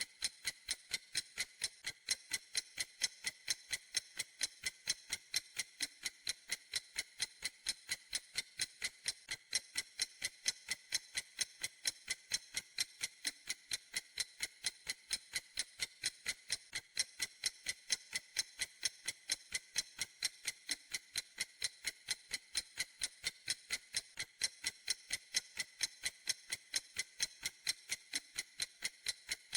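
Clock ticking steadily: an even, unbroken run of crisp, bright ticks, a few ticks a second.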